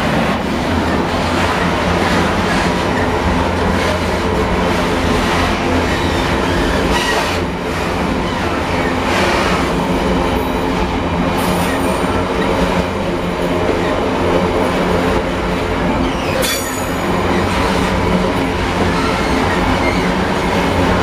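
Container flat wagons of a general-cargo freight train rolling past: a steady rumble and clatter of steel wheels on the rails, with a few sharp clicks over the rail joints.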